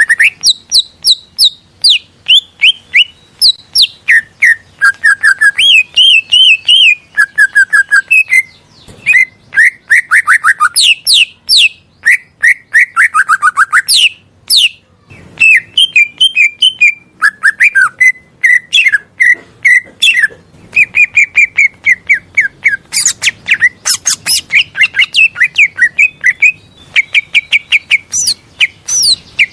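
Cucak ijo (green leafbird) singing a long, varied song: quick chirps, slurred whistles and fast trills following one another with only brief pauses.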